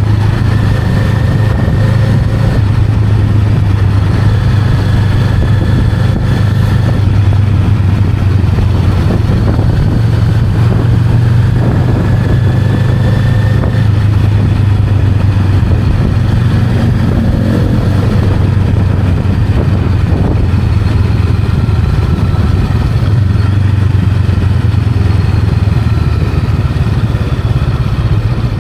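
Honda Rebel 500's 471 cc parallel-twin engine running on the move at a fairly steady speed, with no big revs or gear changes.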